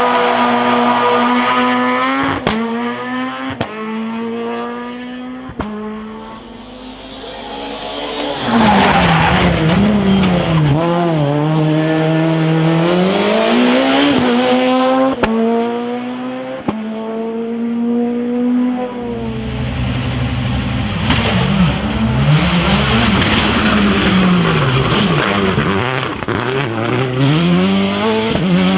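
Rally car engines at full effort on a stage: engines rev up, break off sharply at gear changes and fall on downshifts. One car fades away about a third of the way in, then louder engines arrive and rev up and down through corners.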